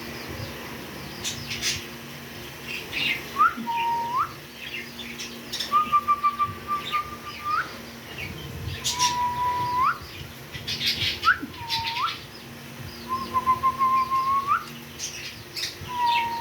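African grey parrot whistling a string of clear notes, each held and then flicked sharply upward at the end, repeated every couple of seconds, with short high chirps and clicks between the whistles.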